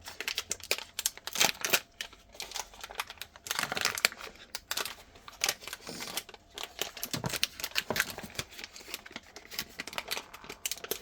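Ice cream sandwich wrappers rustling and crinkling as they are handled and unwrapped, a quick irregular run of sharp clicks and crackles.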